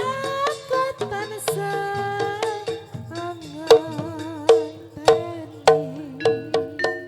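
Live Javanese gamelan-style music with sharp hand-drum strokes, struck metal-keyed notes and a wavering held melody line that enters about three seconds in.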